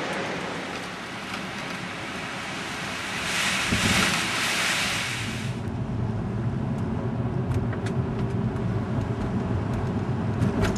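Car and tyre noise on a wet highway mixed with storm wind, with a hissing surge about three to five seconds in, then a steady low rumble and scattered light ticks.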